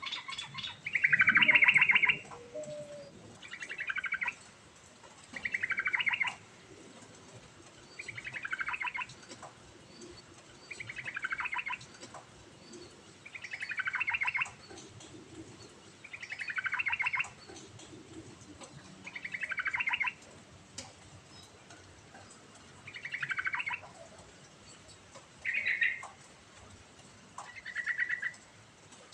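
Yellow-vented bulbul (trucukan) singing in a steady run: short phrases of rapid notes, about one every two and a half seconds, the first the loudest.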